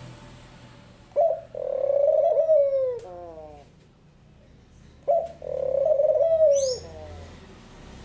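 Barbary dove (pomba burguesa) cooing twice: each call is a short note followed by a long rolling coo that drops in pitch at its end. A brief high chirp comes near the end of the second coo.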